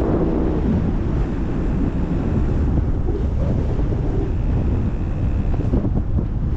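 Wind rushing over the microphone of a paraglider in flight: a steady, loud low rumble and hiss of airflow.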